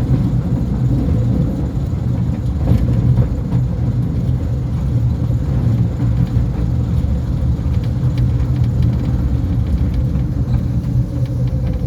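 Mail Rail battery-electric narrow-gauge train running through its tunnel: a steady, loud rumble of wheels on the track, with a faint steady whine and a few light clicks.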